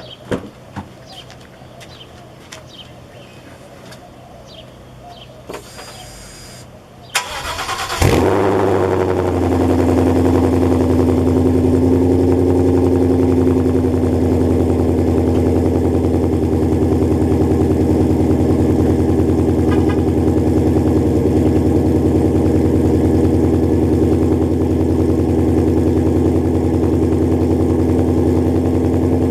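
A 2015 Ford Mustang GT's 5.0 L V8, breathing through Stainless Works long-tube headers and exhaust, is cranked about seven seconds in, catches with a loud flare, then settles into a steady, loud idle. A few faint clicks come before the start.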